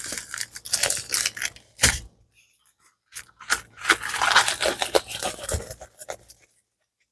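Crinkling, scraping handling of packaging, in two spells with a short pause between, with many small sharp crackles.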